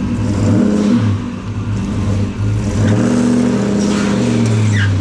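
Supercharged LS3 V8 of a pro street Lincoln revving under load as the car is driven up loading ramps, its rear wheels spinning.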